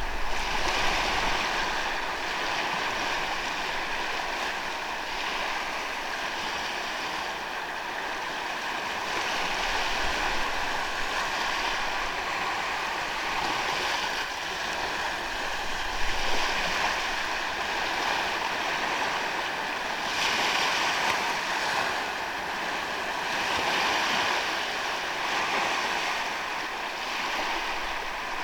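Surf washing onto a sandy beach: a continuous rush of waves that swells and eases every few seconds.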